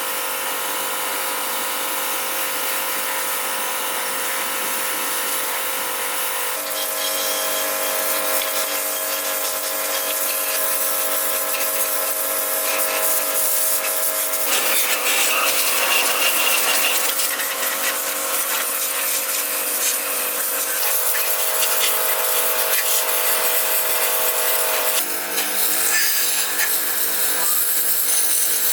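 A small electric power tool running steadily, its hum shifting in pitch a few times.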